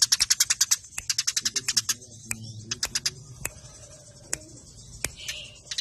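Eurasian tree sparrows chattering in fast, tight runs of sharp chirps, the agitated calling of sparrows squabbling. Dense runs fill the first two seconds, then the chirps thin out to scattered single ones.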